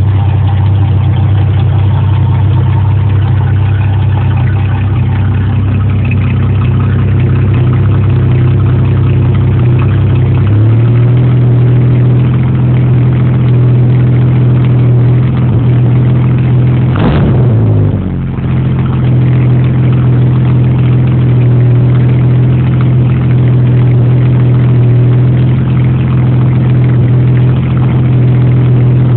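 Ford straight-six engine idling through its exhaust, steady and low. The idle steps up slightly about a third of the way in, and past the middle there is one quick throttle blip that rises and falls within about a second before it settles back to idle.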